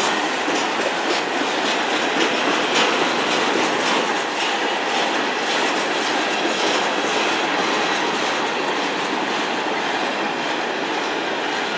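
Freight cars of a mixed freight train rolling past close by: a steady din of steel wheels on the rails, with repeated clicking as the wheels cross rail joints.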